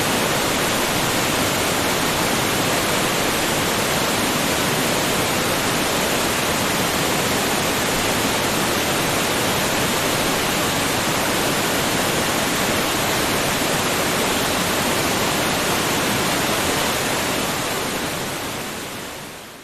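Waterfall: a steady, dense rush of falling water that fades out near the end.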